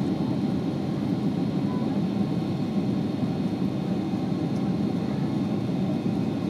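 Steady cabin noise of a Boeing 767 airliner heard from inside the passenger cabin: engine and airflow noise, deep and even, with a faint, steady, high-pitched whine above it.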